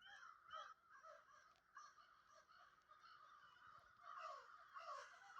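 Faint bird calls: a string of short, falling calls, about two a second, that grow a little louder after about four seconds.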